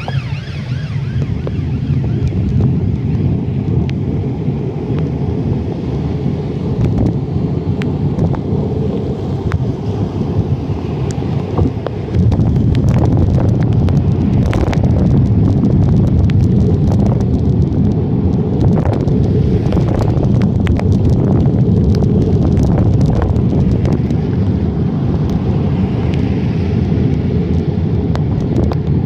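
Wind buffeting a handlebar-mounted phone's microphone on a moving bicycle in the rain: a loud, steady low rumble with scattered sharp clicks, growing louder about twelve seconds in.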